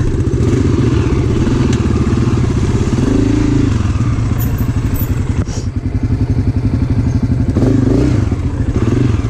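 Dirt bike engine running at low speed on a trail, its pitch rising briefly about three seconds in and again near the end as the throttle opens.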